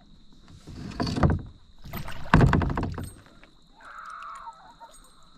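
Water splashing and sloshing against a kayak in two bursts, the second louder, as a big largemouth-size bass is brought alongside and landed.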